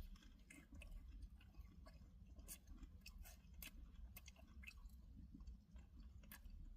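Faint chewing, with small irregular wet mouth clicks, from a person eating close to the microphone.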